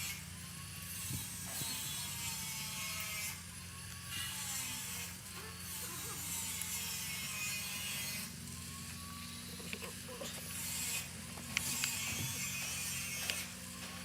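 Hand ratchet worked in repeated strokes, its pawl clicking in spells about a second long, with a few sharper clicks near the end. A steady low hum runs underneath.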